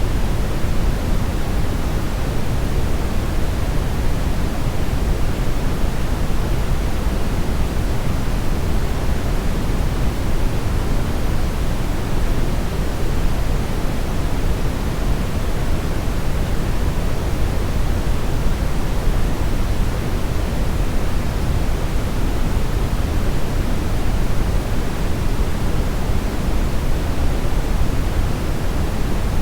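Steady synthetic brownish noise, a constant deep hiss weighted toward the bass, unchanging throughout.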